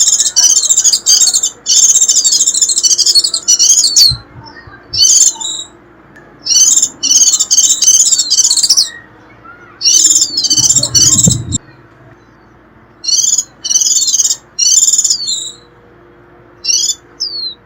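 White-eye's rapid, high twittering call (the 'khuyên rít' chatter used as a lure for wild white-eyes), given in repeated short bouts with brief pauses between them. A brief low rumble comes about eleven seconds in.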